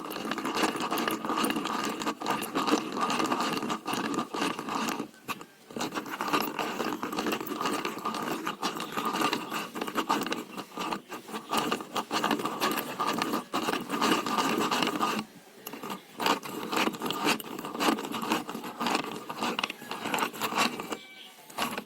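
Hand-crank drill being turned: a dense, rapid clicking and scraping of meshing gears, with short pauses about five and fifteen seconds in.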